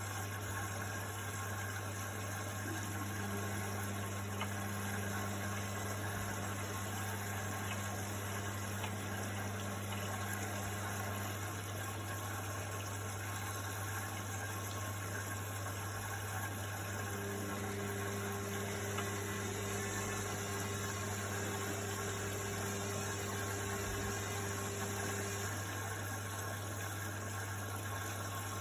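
Indesit washing machine at the start of its programme, filling with water: a steady hiss of water with a constant low hum, and a deeper machine tone that comes in twice for several seconds.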